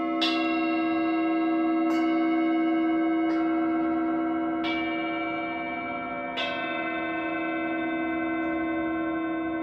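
Singing bowls struck one after another, about five strikes a second or two apart, each ringing on in long overlapping tones above a steady low hum.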